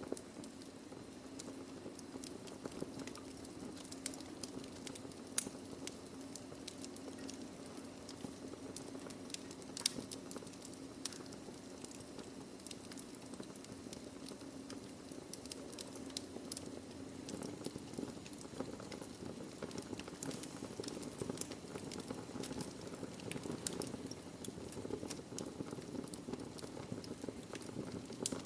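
Wood fire burning in a fireplace: a steady low rushing hiss with irregular sharp crackles and pops of burning logs, a couple of louder pops about five and ten seconds in.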